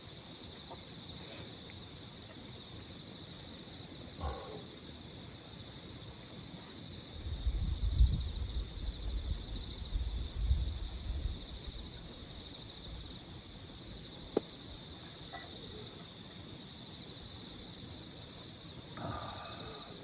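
Night insects, crickets among them, chirring steadily: one continuous high trill, with a second insect chirping higher up in a slow pulse about once a second. A brief low rumble comes about halfway through.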